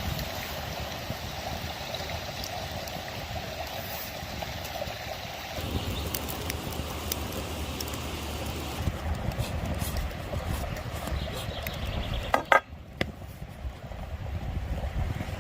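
Stream water flowing steadily, with a few sharp knocks about twelve seconds in.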